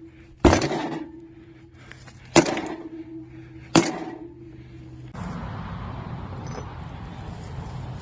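Splitting maul striking the metal cabinet of a Haier mini fridge three times, each blow followed by a short metallic ring. About five seconds in, a steady rushing noise starts and carries on.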